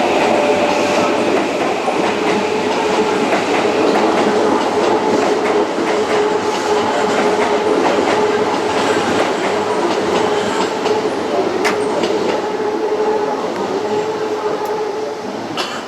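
Electric train running on the rails through the station, a loud steady rumble of wheels with a constant motor hum, a few sharp clicks late on, and the sound easing off near the end.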